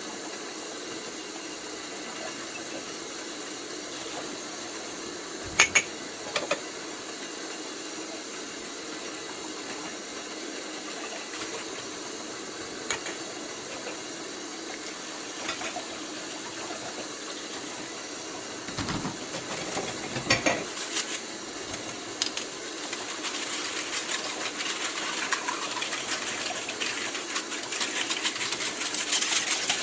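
Dishwashing at a kitchen sink: a steady hiss under a few sharp clinks of dishes, with the handling growing busier and louder about two-thirds of the way through.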